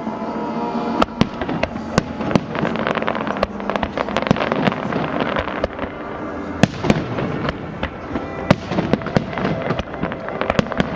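Fireworks bursting in an irregular series of sharp bangs and crackles, several a second at times.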